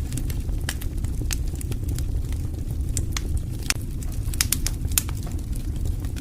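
Wood fire in a fireplace crackling: irregular sharp pops and snaps, a few louder than the rest, over the steady low rumble of the flames.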